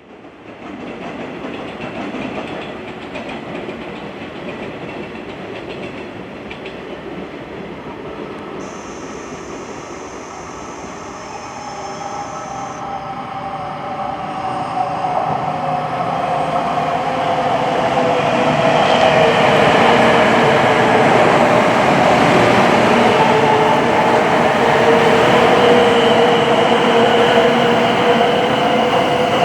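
Shinkansen train approaching, its running noise building steadily louder over the second half, with a whine that slowly falls in pitch. A thin high-pitched tone sounds for a few seconds about nine seconds in.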